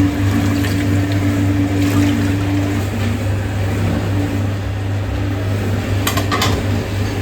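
A steady, loud, low machine hum. A quick run of light clicks comes about six seconds in.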